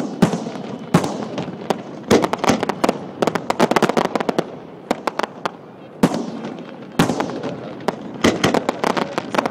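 Aerial fireworks display: shells bursting with sharp booms, and between them dense runs of rapid crackling pops from about two to four seconds in and again near the end.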